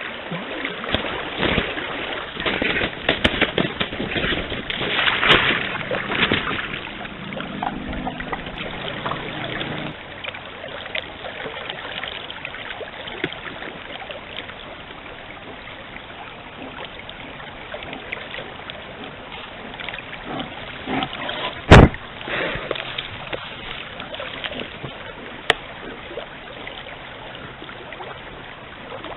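Forest stream running steadily, with irregular splashes and small clicks from the water. A single sharp knock about two-thirds of the way through is the loudest sound, and a fainter one follows a few seconds later.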